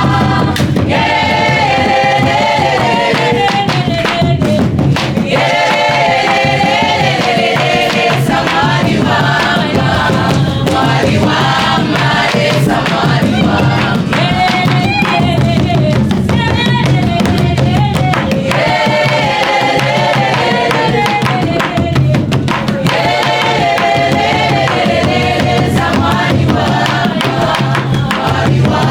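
Group singing a Korean worship song over instrumental accompaniment with percussion.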